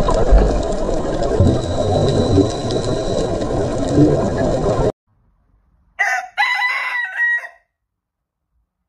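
A dense, noisy din for about five seconds that cuts off suddenly; after a short pause a rooster crows once.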